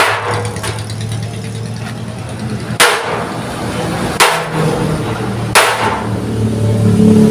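Hammer striking a chisel to cut thick steel plate: four sharp, ringing metal blows about a second and a half apart, over a steady low hum.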